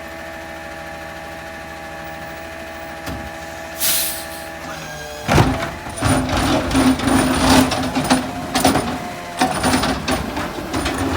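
Rear-loader garbage truck running at a steady hum, with a short air hiss about four seconds in; from about five seconds in, repeated clanking and banging over a louder hum as the truck works.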